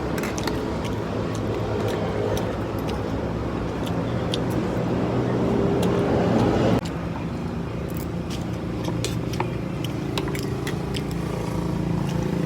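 A motor vehicle engine running steadily, with scattered light clicks. The sound changes abruptly about seven seconds in, then the engine runs on at a slightly different pitch.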